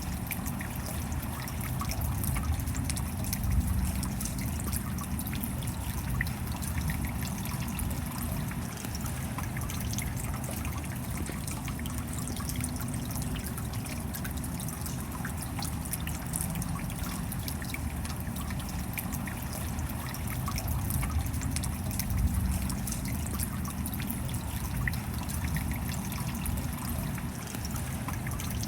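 Steady rain falling, with many separate drop ticks sprinkled through a constant watery hiss and a low rumble underneath.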